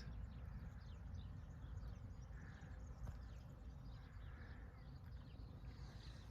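Faint open-field ambience: a steady low rumble with scattered faint, short high chirps and ticks.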